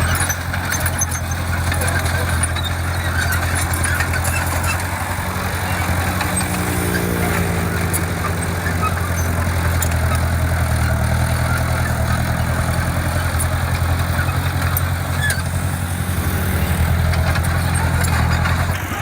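Heavy diesel engine of construction equipment running steadily, its note shifting a few times as the load changes.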